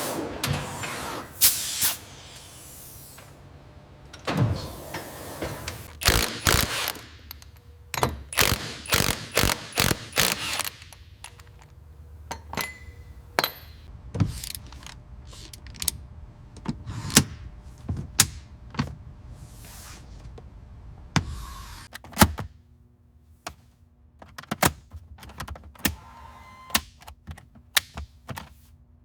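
Hand tools and metal parts being worked: irregular sharp clicks, clanks and knocks, some in quick runs, with a few brief hissing swishes between them.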